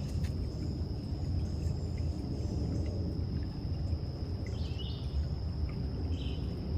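A steady, high insect trill like crickets, with a few short bird chirps in the second half, over a strong low rumble such as wind on the microphone.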